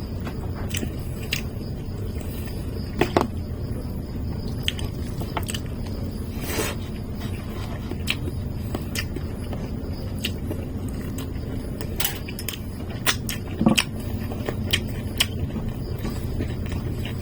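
Close-up eating sounds: chewing with scattered small clicks and ticks of utensils and food, the loudest about three seconds in and again near the end. A steady low rumble runs underneath.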